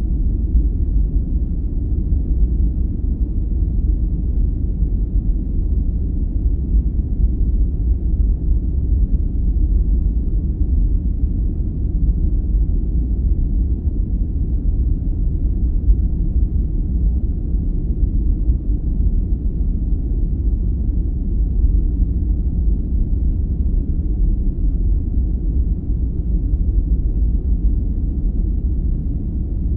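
Steady sleep-aid noise: a deep, even rumble with no hiss on top, unchanging throughout.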